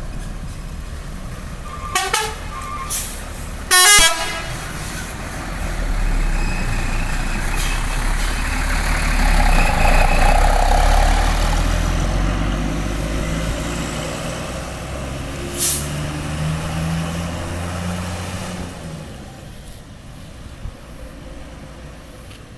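A bus horn gives a few short toots, the loudest about four seconds in. Then a bus engine swells as it passes close by and fades away, with a brief sharp hiss in the middle of the pass.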